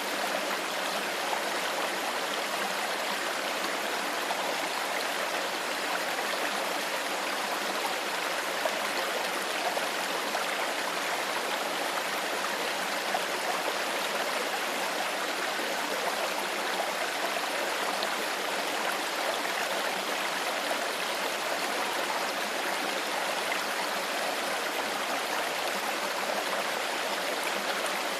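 Shallow stream running steadily over rocks, a continuous babbling and gurgling rush of water.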